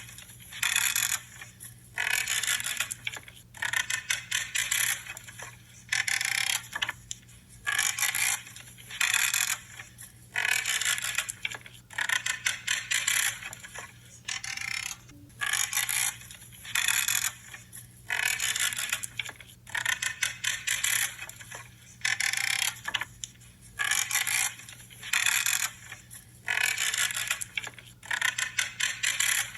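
Pruning shears cutting through branches, each cut a creaking crunch, repeated steadily about once a second, often two cuts close together.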